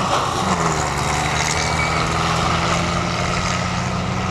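Vintage open touring car's engine running under load as it drives past and climbs away up the hill, a steady note with a brief change in pitch about half a second in.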